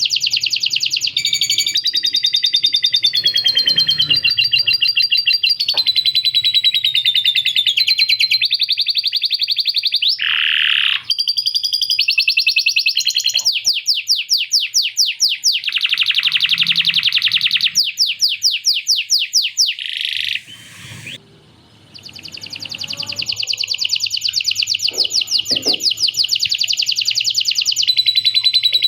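Male canary singing a long, loud song of fast trills and rolls, its notes repeated many times a second, with lovebird-style chattering phrases worked into it; the song breaks off briefly about two-thirds of the way through, then carries on.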